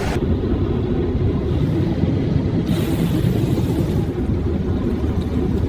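Steady low rumble of a gas-fired glassblowing furnace burner.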